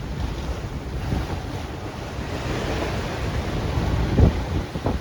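Wind buffeting the microphone over the rush of waves and water around a sailboat under way in rough, windy seas, with a louder buffet about four seconds in.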